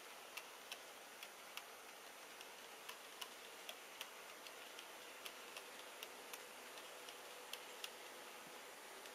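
Wheels of an HO gauge model freight train, a pair of KATO DD51 diesels hauling Taki 1000 tank wagons, clicking over the rail joints: faint, irregular sharp ticks, often in close pairs, two or three a second over a low steady hiss.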